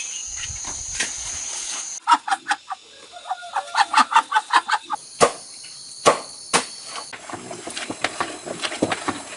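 Chickens clucking: runs of short, quick clucks with an occasional longer call, over a steady high-pitched whine in the first two seconds and a few sharp clicks.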